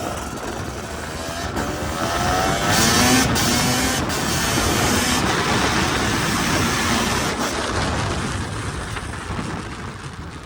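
Dirt bike engine accelerating under a rider, its pitch climbing about two to four seconds in, with heavy wind noise on the microphone; it eases off near the end.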